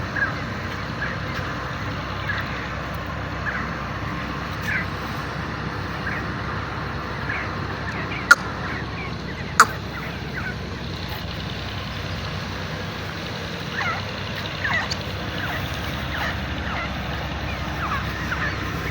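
Grey francolin (teetar) calling in short, scattered notes over a steady low rumble. Two sharp clicks about eight seconds in, a little over a second apart, are the loudest sounds.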